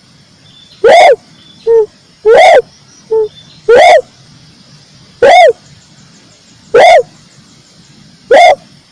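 Red turtle dove (tekukur merah) cooing: loud, arched coos repeated about every one and a half seconds, some followed by a short, lower note.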